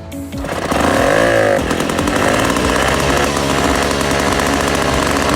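Small engine running fast, revving up and back down about a second in, then holding a steady high speed.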